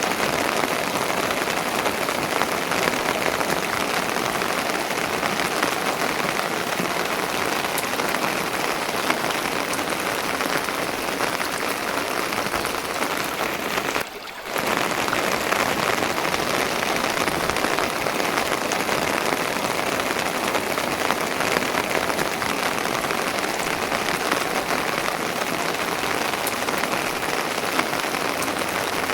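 Steady, dense patter of rain, with a brief drop-out about halfway through.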